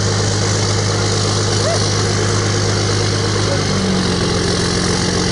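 3.0 Cummins common-rail turbo diesel in a Jeep idling steadily after a cold start; about four seconds in, the idle note changes and settles to a new steady hum.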